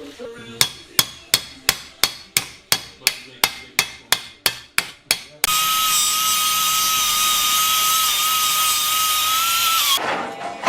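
Hammer blows on metal, about fourteen sharp ringing strikes at roughly three a second, then a power tool runs steadily with a high whine over loud hiss for about four and a half seconds, its pitch falling as it stops.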